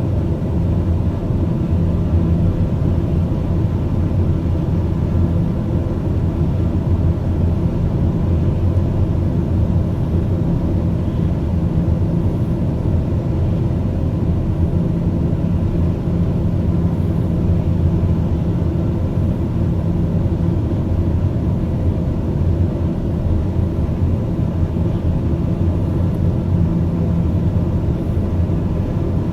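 Steady low rumble with a faint low hum, unchanging in level throughout.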